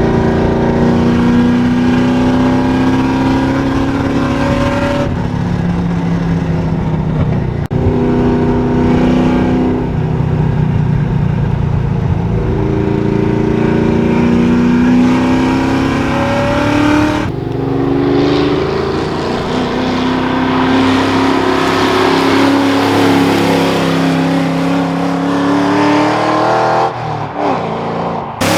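1998 Mustang GT's 4.6-litre V8 with a Comp Cams stage 2 cam, run hard: the exhaust note climbs in pitch again and again, each climb ending in a sudden drop, as through gear changes under acceleration.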